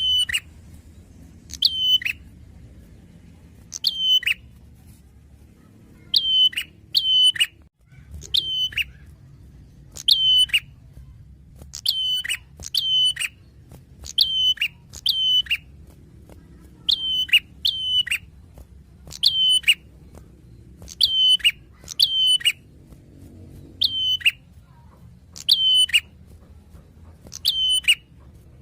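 Prenjak, a small songbird, calling over and over: short, loud notes that slur down in pitch, often in quick pairs, repeated every second or two.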